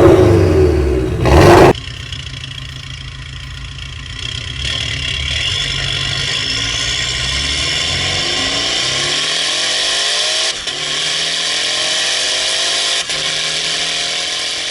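Porsche 718 Boxster's turbocharged flat-four engine through a valved cat-back exhaust with catless downpipe: a very loud rev that cuts off suddenly just under two seconds in. Then the engine pulls steadily, its pitch rising for several seconds, with two brief dips in level.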